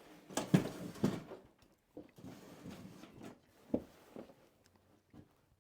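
Handling noise: several sharp knocks and short scrapes of a cut wooden board being picked up, moved and set down, with the loudest knocks about half a second and one second in and another near four seconds.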